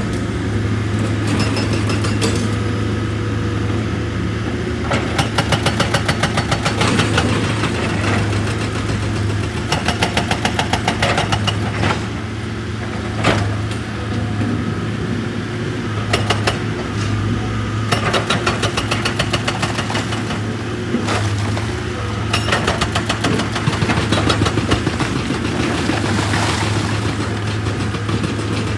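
Heavy diesel machinery running steadily, with several bursts of rapid hammering on rock, about six blows a second, each lasting a couple of seconds.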